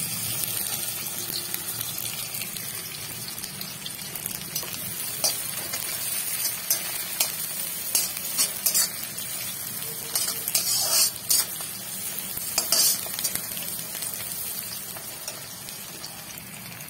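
Onions, garlic and ginger sizzling steadily in hot oil in an iron kadhai, with a metal spatula scraping and clinking against the pan now and then, most often around the middle.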